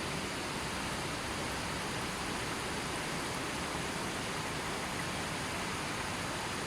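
Steady, even rush of a gently flowing river.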